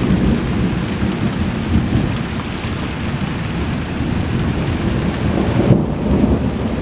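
Thunder rumbling low and continuously over steady rain, swelling briefly a little before the end.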